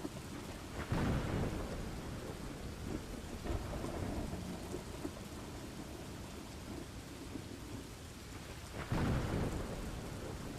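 Steady rain with rolling thunder, two louder thunder rumbles swelling about a second in and again near the end.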